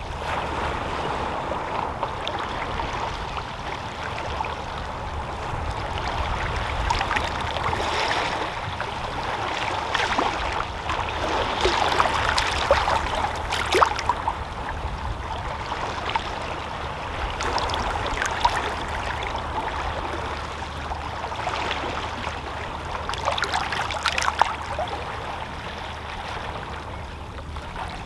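Small, calm sea waves lapping and splashing against shoreline rocks: a steady wash of moving water broken by irregular splashes, the loudest a little before the middle.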